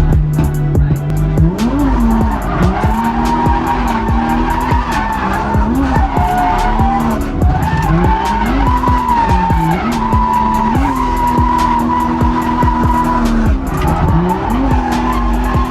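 BMW E36 drift car's 2.8-litre M52B28 straight-six revving up and dropping back over and over, holding high revs for stretches, while the tyres squeal steadily in a slide.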